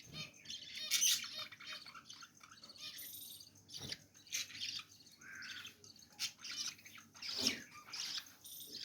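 Pet budgerigars chirping in short, irregular calls, with a louder call about seven and a half seconds in.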